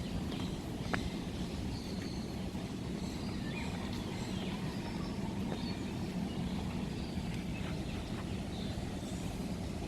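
Outdoor ambience: a steady low rumble with faint, scattered bird chirps and a single click about a second in.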